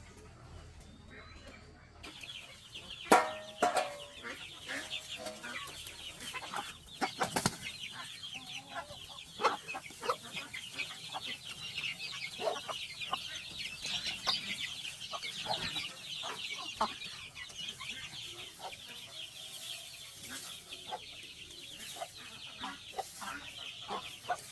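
Chickens clucking and cheeping: a dense high chatter sets in about two seconds in and keeps on, with scattered knocks and clatters, the loudest a sharp knock about three seconds in.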